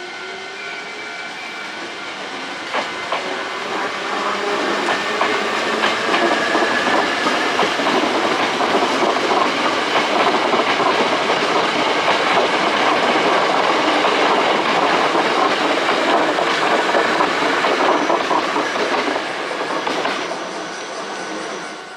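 A Hankyu Kyoto Line resistance-controlled electric train passes: it builds up over the first several seconds, runs loud with the clatter of wheels on the rails, then fades quickly near the end.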